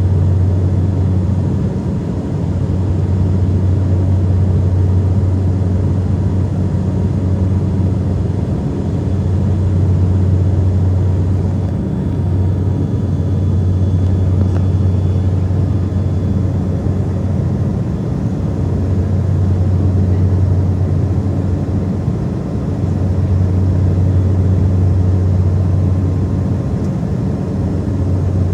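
Saab 340 turboprop engines and propellers droning steadily: a strong low propeller hum with fainter higher tones, swelling and fading every few seconds as the two propellers beat against each other.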